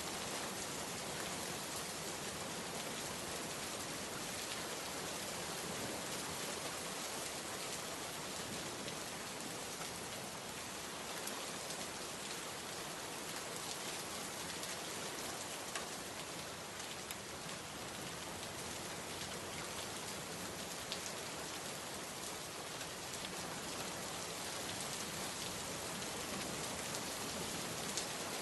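Steady heavy rain falling on surfaces, a dense even hiss with a few individual drops ticking out now and then.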